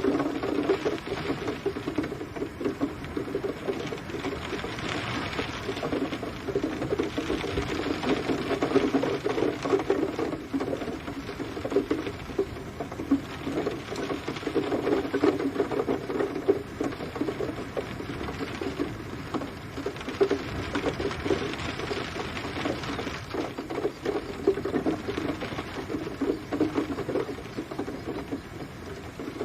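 Steady rain pattering, a dense run of fine drops hitting a surface, swelling and easing every few seconds.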